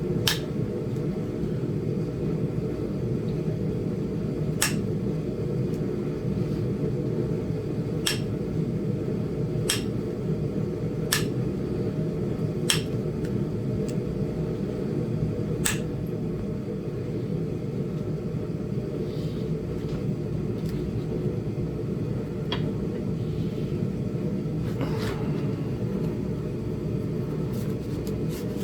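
Flintknapping by indirect percussion on a small Flint Ridge chert biface: about nine sharp, short clicks at irregular intervals of one to several seconds as the punch is struck and flakes come off the stone. A steady low rumble runs underneath.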